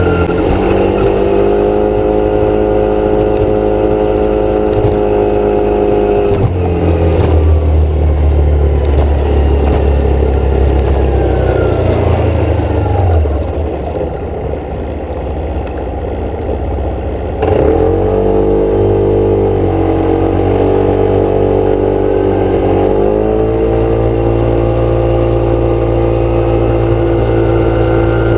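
An engine running steadily, its pitch shifting in steps several times, falling away and dropping quieter for a few seconds in the middle before picking back up.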